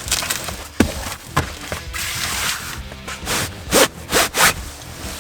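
Fabric seat-cover straps being pulled tight and fastened: a series of short rasping, ripping strokes, with a longer one about two seconds in and several quick sharp ones near the end. Background music plays under it.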